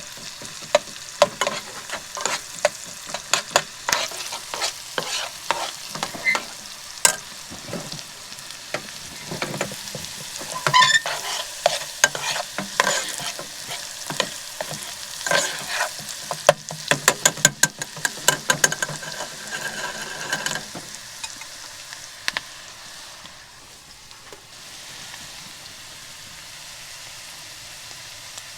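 A utensil stirring and knocking in a pan of pasta food frying, many irregular clicks and scrapes over a steady sizzle. About three quarters of the way through the stirring stops and only the steady sizzle remains.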